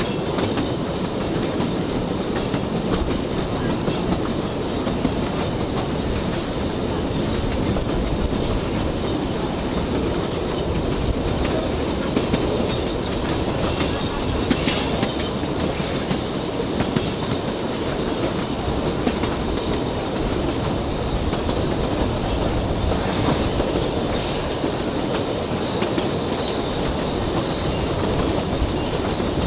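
Narrow-gauge tourist train running, heard from inside an open-sided carriage: a steady rumble and rattle of the carriage, with the wheels clicking over the rail joints.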